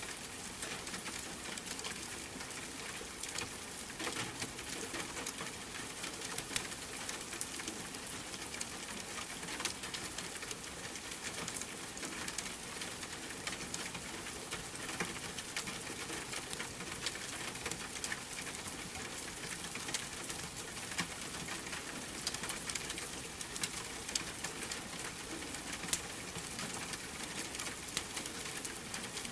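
Steady rain mixed with a crackling wood fire: an even hiss with frequent small pops and ticks.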